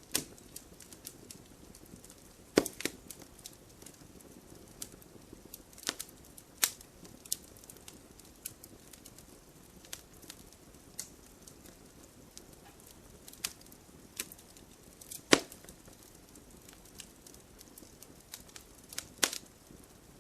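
Wood fire crackling, with sharp irregular pops and snaps from the burning logs over a low steady hiss; the loudest cracks come about two and a half seconds in and about fifteen seconds in.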